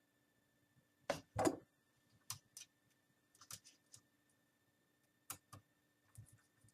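Scattered small clicks and taps, some in quick pairs, from a small screwdriver and tiny screws being worked into a laptop's LCD screen frame.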